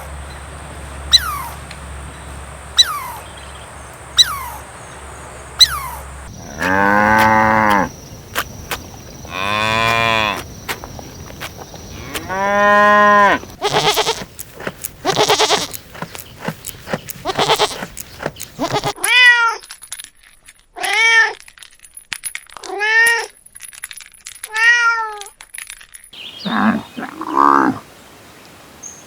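A string of separate animal recordings: short sharp chirps repeating every second and a half, then three long drawn-out calls, a run of noisy bursts, and four short rising-and-falling cat meows, with more short calls near the end.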